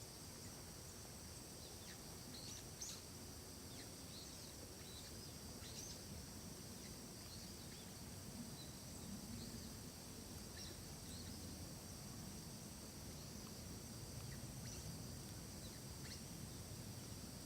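Forest ambience: a steady high-pitched drone of insects, with faint short bird chirps here and there over a low, even background rumble.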